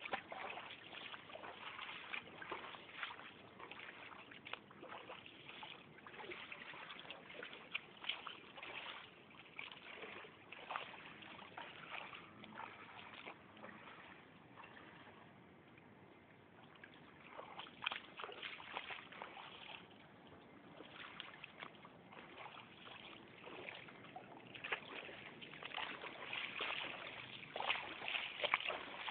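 Floodwater sloshing and splashing in an irregular run of small splashes, sparser in the middle and busier near the end.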